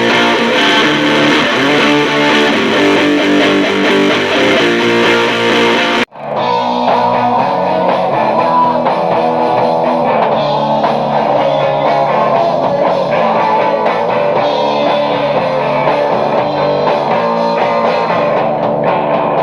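Electric guitar playing rock music. About six seconds in it cuts off abruptly and a different, duller-sounding guitar passage starts.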